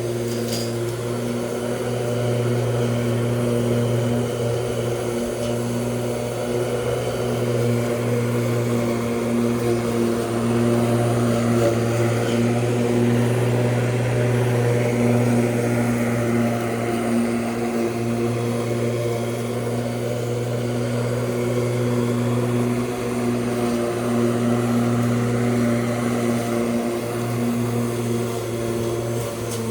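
Lawn mower running steadily: an even motor hum with a few brief dips.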